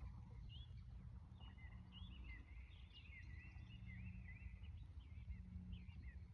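Faint chirping of small birds, many short quick notes in a busy run, over a low steady background rumble.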